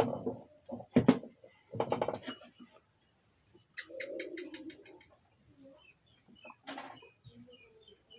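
A pigeon cooing low, with small birds chirping high and a quick run of light clicks about halfway through.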